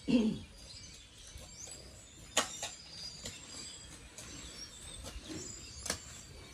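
Small birds chirping in the background, with a short falling voice-like sound at the very start and sharp knocks about two and a half and six seconds in.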